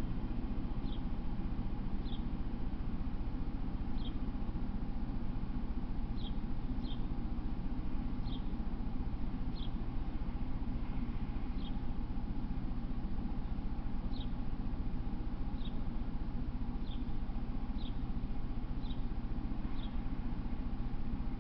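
A small bird giving short, high single chirps, one every one to two seconds, over a steady low hum.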